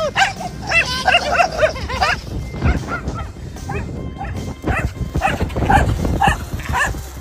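Dog barking and yipping in a quick series of short, high calls.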